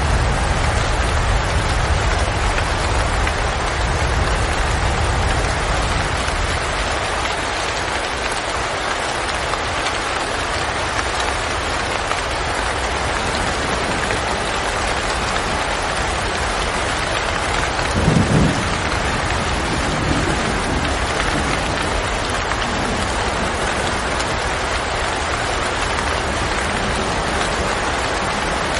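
Steady rain falling, an even hiss throughout. A low rumble dies away in the first few seconds, and a brief low thud comes about two-thirds of the way through.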